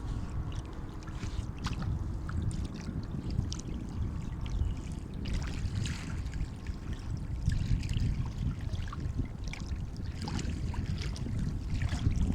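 Sea water washing and lapping at the shore: a steady low rumble of moving water with many small splashes scattered through it, swelling and easing.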